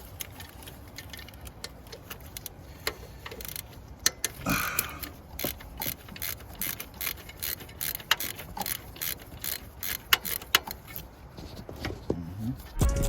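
Ratchet wrench with a 12 mm socket clicking in short irregular runs as an alternator mounting bolt is worked loose.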